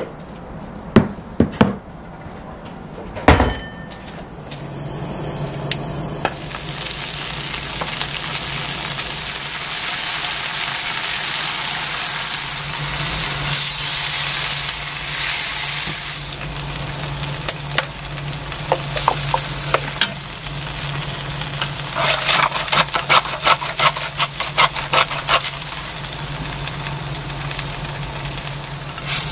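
Kimchi frying in a wok: a steady sizzle over a low hum, flaring louder when kimchi juice and water are poured in about 13 seconds in. A wooden spatula clatters and scrapes against the pan in quick strokes between about 22 and 25 seconds; a few sharp knocks come in the first seconds.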